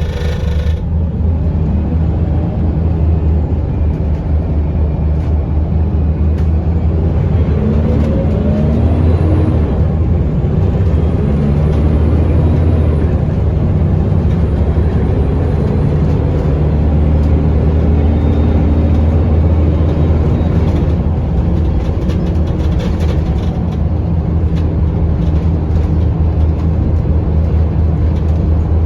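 Scania L94UB bus's diesel engine and ZF automatic gearbox running under way, a steady low drone with a rising whine about eight seconds in as it accelerates.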